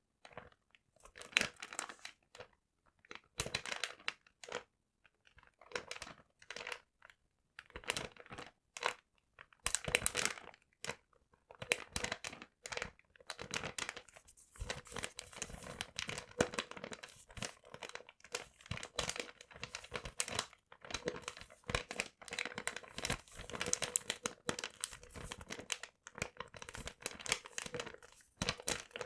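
Paper being crinkled and rustled in irregular crackling bursts. The bursts come sparsely with short gaps at first and run almost without a break from about halfway on.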